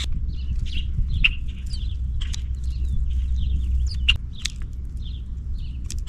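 Small birds chirping, many short sharp calls in quick succession, over a steady low rumble.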